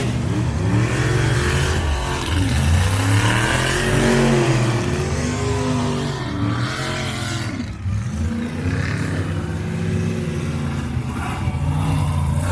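Monster truck engine revving again and again, its pitch climbing and falling with each blip of the throttle.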